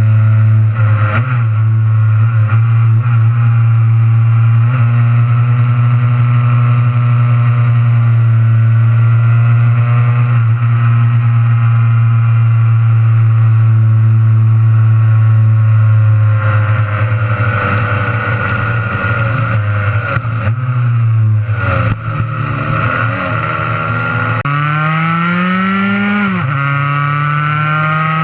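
Honda NSR50's single-cylinder two-stroke engine running hard at high revs, holding a steady pitch for a long stretch. Past the middle the revs sag and waver. Then they climb, drop sharply once, and climb again, as in a gear change under acceleration.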